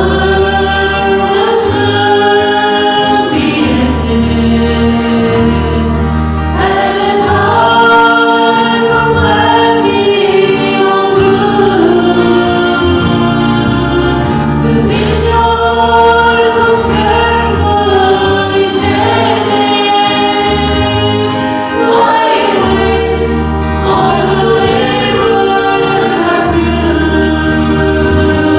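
Gospel song sung by a group of voices over instrumental accompaniment with steady, sustained bass notes.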